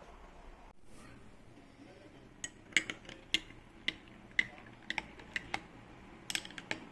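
Kitchenware clicking and tapping: about a dozen light, sharp clicks at uneven spacing, beginning a couple of seconds in.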